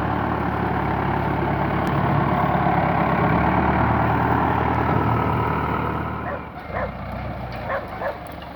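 Fendt tractor's diesel engine running steadily, then fading away about six seconds in. After that a dog barks several times.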